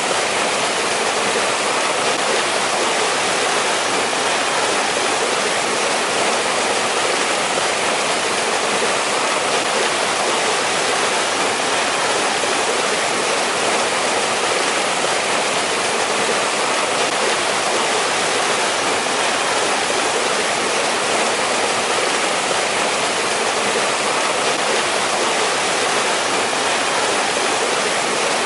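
Mountain stream water rushing and splashing steadily over rocks, an even, unbroken rush.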